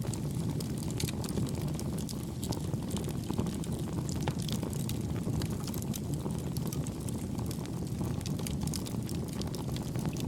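Campfire burning: a steady low rumble of the flames with frequent small, soft crackles and pops, the crackling kept gentle and even.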